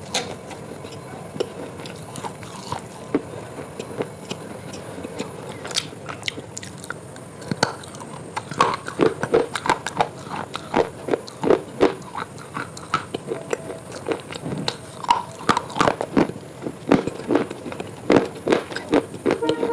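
Close-miked crunchy biting and chewing of food, irregular sharp crunches that come sparsely at first and grow fast and dense from about halfway through.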